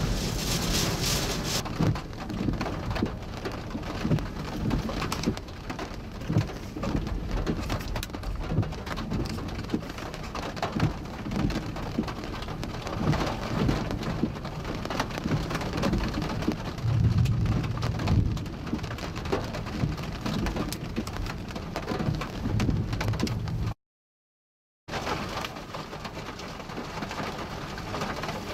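Heavy rain pelting down in a severe thunderstorm with extreme winds, a dense patter of drops with low gusting rumbles of wind on the microphone. The sound cuts out for about a second near the end.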